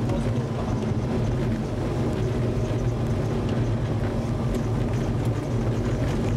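Trabant rally car's engine running steadily under load, heard from inside the cabin.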